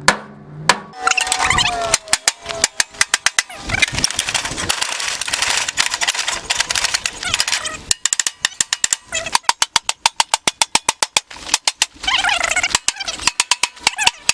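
Rapid, repeated hammer blows on an MTD lawn tractor's body panels, several strikes a second in long runs with short pauses between. A voice is heard shouting near the start and near the end.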